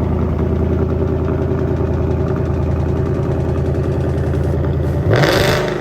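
Muscle car's engine idling steadily, then revved once in a short, loud blip near the end.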